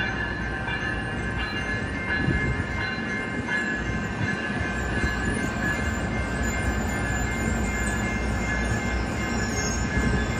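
Passenger train rolling past on the rails with a continuous rumble and a steady high squeal from its wheels.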